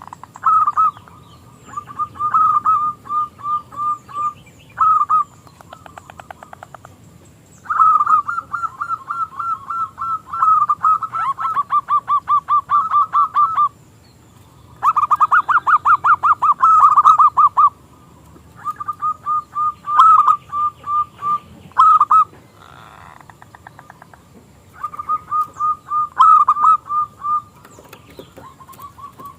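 Zebra dove (perkutut) singing: repeated bouts of rapid staccato cooing notes, each bout lasting one to several seconds with short pauses between. It is a small, high-voiced local bird.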